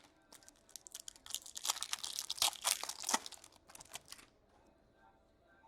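Foil wrapper of a trading card pack being torn open and crinkled by hand, a dense crackling that stops a little after four seconds in.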